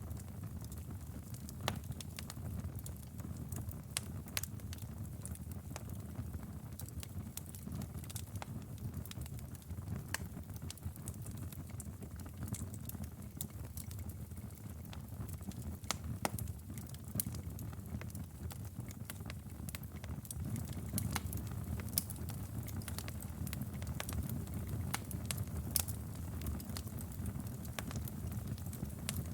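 A crackling fire burning, with a steady low rumble under frequent, irregular sharp crackles and pops.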